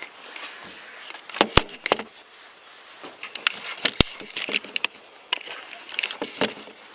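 Objects being handled and rummaged through: rustling with scattered clicks and taps, and two sharp knocks, about a second and a half in and about four seconds in.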